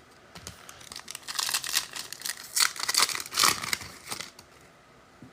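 Foil trading-card pack wrapper being torn open and crinkled: a run of crackling rustles that starts about a second in and stops about four seconds in.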